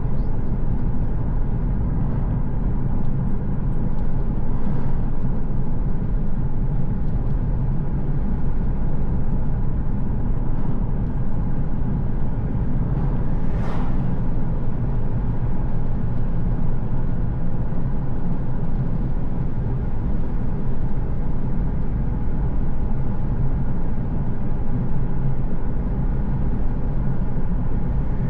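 A car driving along a road: a steady low rumble of engine and tyres, with a brief whoosh about 14 seconds in and a fainter one near 5 seconds.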